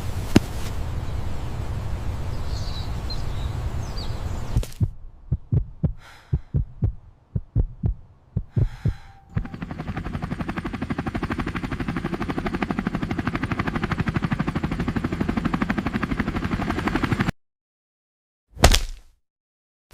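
Battle sound effects: a low rumble, then a string of irregular heavy thumps, then a long, fast, even rattle that cuts off suddenly, with one short burst after a pause near the end.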